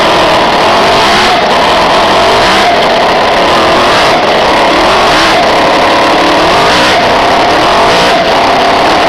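An internal combustion engine running loud and steady, its pitch wavering slightly.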